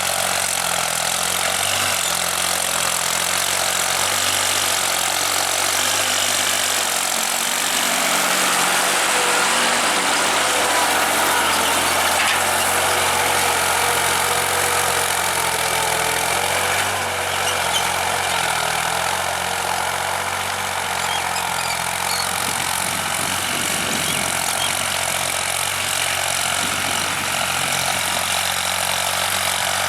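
New Holland TT55 tractor's diesel engine running steadily, its pitch wavering slightly now and then.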